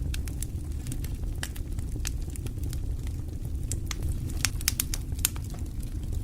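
Fireplace fire crackling: sharp pops scattered throughout, with a quick run of louder ones about two-thirds of the way through, over a low steady rumble of the flames.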